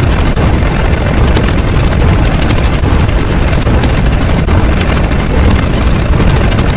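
Loud, continuous rumbling roar, heaviest in the low end, with dense crackling throughout and no break.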